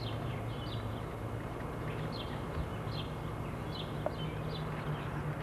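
Birds chirping in the dawn background, short high chirps repeating a little more than once a second over a steady low hum, with a faint click about four seconds in.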